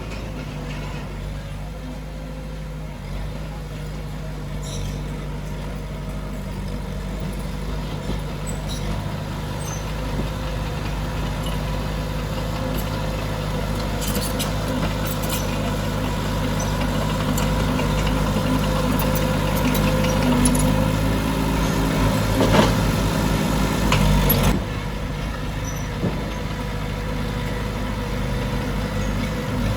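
Heavy diesel earthmoving machinery running, growing louder and working harder toward about 20 seconds in, with a few sharp metallic clanks, then easing off suddenly a little before the end.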